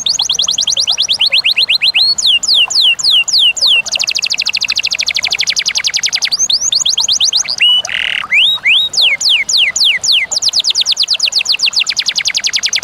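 Canary singing a fast, loud rolling song: phrases of repeated downward-sweeping whistled notes, a few a second, alternating with very rapid trills.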